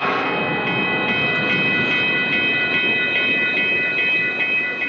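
Union Pacific intermodal freight train rolling past, its wheels clicking over rail joints about two or three times a second. A steady high ringing tone runs over the rumble.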